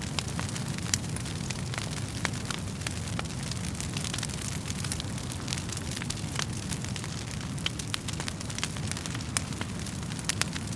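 Wood fire burning in a fireplace: irregular sharp crackles and pops of burning wood, several a second, over a steady low rumble of flames.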